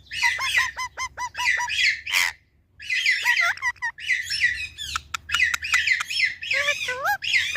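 Pet parrot squawking and chirping in quick repeated calls, several a second, breaking off briefly about two and a half seconds in before starting up again.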